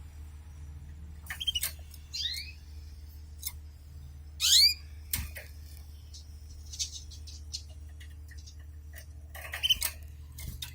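Canaries giving short chirping calls that sweep downward in pitch. They come in scattered groups, loudest about four and a half seconds in, with another cluster near the end and a sharp click between, over a steady low hum.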